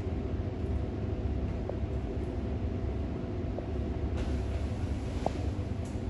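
Steady low engine rumble with a hum of several steady tones, and a faint hiss coming in about four seconds in.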